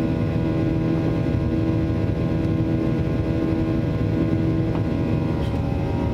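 Boeing 737-800's CFM56-7B turbofan engines running at take-off power: a steady drone with several constant whining tones over a low rumble.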